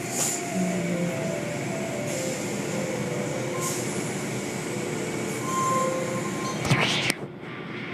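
Car wash equipment running: a steady rushing noise, with a brief louder surge near the end, after which it drops off.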